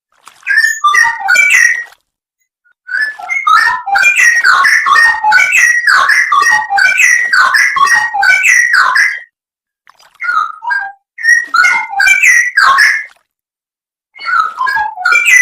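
Straw-headed bulbul (cucak rowo) singing loud, rich whistled and warbling phrases, in four bursts broken by short pauses.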